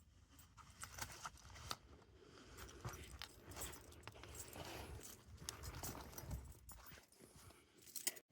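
Faint handling noises: soft rustling with scattered light clicks and knocks, as clothing and gear are moved about.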